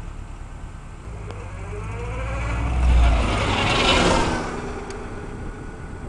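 1999 Subaru Legacy Outback's flat-four engine revving as the wagon drives directly over the camera. Its note rises in pitch, is loudest as the car passes overhead about three to four seconds in, then fades as it moves away.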